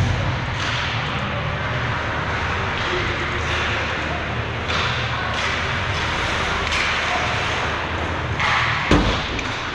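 Ice hockey game play in an arena: skates scraping and carving the ice in short strokes over a steady rink hum, with a sharp knock near the end.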